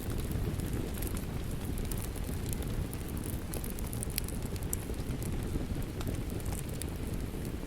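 Steady rain mixed with a crackling wood fire: a dense low rush with scattered sharp pops and ticks throughout.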